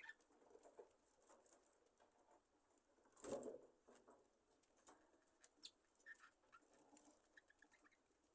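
Budgerigars settling in for the night, faint: scattered small rustles and clicks, a brief louder wing rustle about three seconds in, and a few short soft chirps later.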